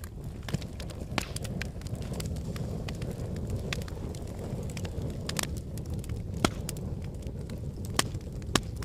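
Wood fire burning in a fireplace: a steady low rumble of flames with irregular sharp crackles and pops from the logs, a few louder snaps toward the end.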